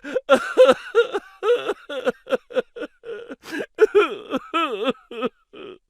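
A high-pitched voice sound effect: a rapid run of short syllables with sliding pitch, about three or four a second, stopping near the end.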